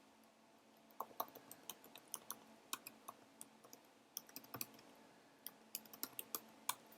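Faint typing on a computer keyboard: a quick, irregular run of keystrokes starting about a second in.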